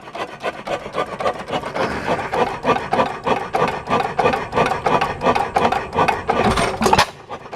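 Galloway 5 horsepower hit-and-miss gas engine running with no muffler: a rapid, steady mechanical clatter as it coasts, with one heavy firing stroke about six and a half seconds in.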